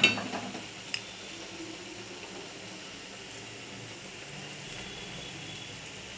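A metal utensil clatters against the frying pan at the start, with one sharp tap about a second later, followed by a steady hiss of oil frying.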